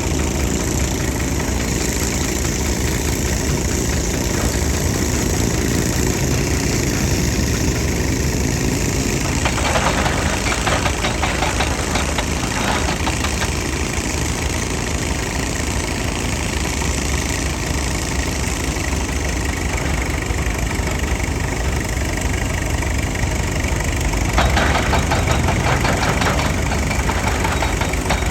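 Excavator's diesel engine running steadily, with two stretches of rapid rattling clatter, about ten seconds in and again near the end.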